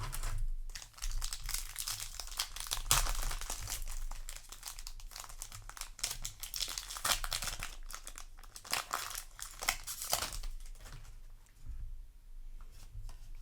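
Foil booster-pack wrapper being torn open and crinkled in the hands: a dense run of crackling and rustling that thins out about ten seconds in.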